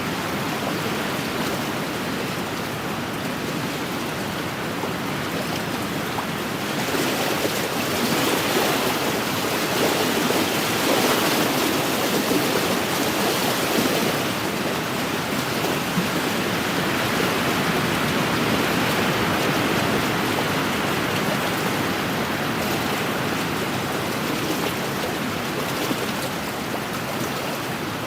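Wind-driven small waves on a lake washing against the shore in a steady rush, growing louder for several seconds in the middle.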